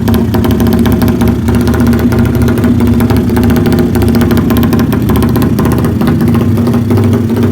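Modified Honda motorcycle engine running at a steady speed through an aftermarket left-side exhaust, loud and even with no revving.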